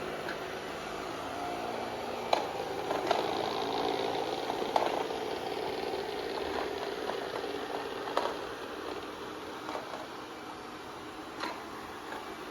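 Amarey A90+ robot vacuum running, a steady whir of its suction motor and brushes, with several sharp clicks or knocks spread through it.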